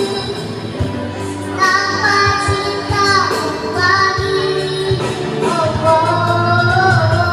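A child singing a song in a high voice, holding and bending notes over musical accompaniment.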